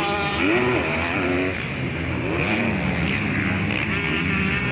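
Several 250 cc motocross bike engines racing, each revving up and falling back again and again, overlapping one another.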